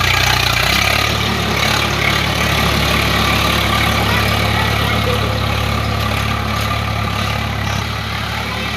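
Swaraj 744 FE tractor's three-cylinder diesel engine running steadily, its note shifting slightly about a second in and again near the end.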